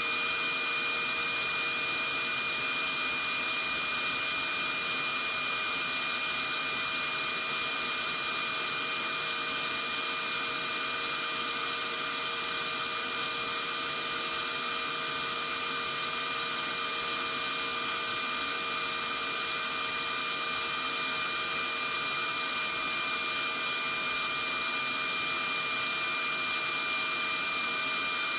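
Vacuum cleaner motor running steadily, a constant hiss of rushing air with a few steady high whines over it, unchanging throughout.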